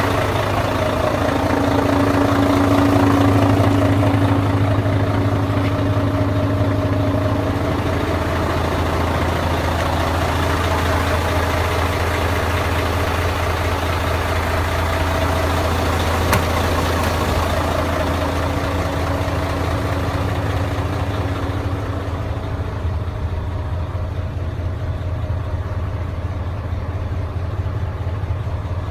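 Mercedes-Benz 1841 truck's diesel engine idling. The engine speed is a little higher at first and settles to a steady, lower idle about eight seconds in.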